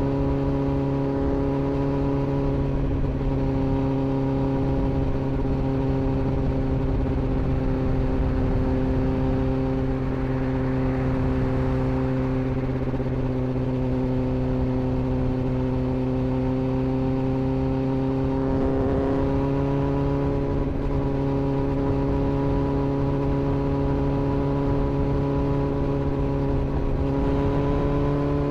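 Sport motorcycle's inline-four engine running at steady revs, cruising with the pitch held nearly constant.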